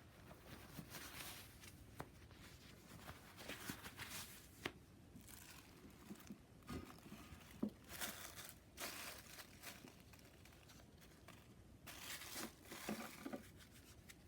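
Quiet crinkling and rustling of something being handled, in several short spells, with a few light clicks among them.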